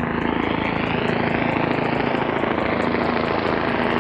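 Car engine running under steady acceleration, with a whine that rises slowly in pitch throughout.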